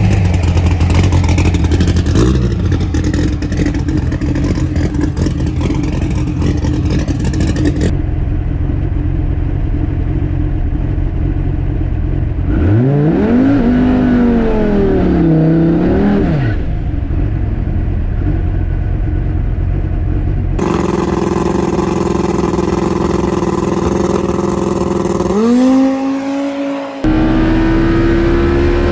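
Twin-turbo Dodge Viper V10 drag car running and revving, its pitch rising and falling, heard in several short segments that cut abruptly into one another.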